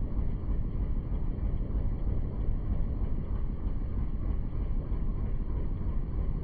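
Steady low rumble of a moving boat, with wind buffeting the microphone.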